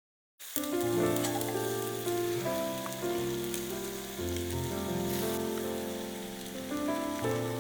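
An egg sizzling as it fries in a pan over a campfire, with scattered sharp crackles, under background music of sustained chords that change every second or two. The sound starts abruptly about half a second in.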